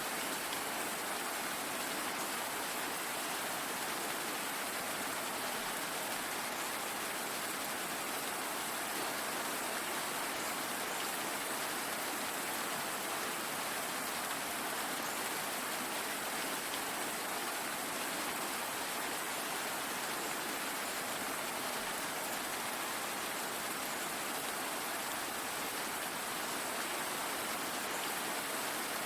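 Steady, even rainfall, a constant hiss with faint scattered drop ticks.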